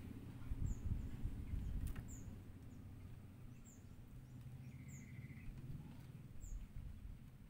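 Faint bird calls: a thin, high, falling chirp repeated about every second or so, and one short trill near the middle, over a low rumble.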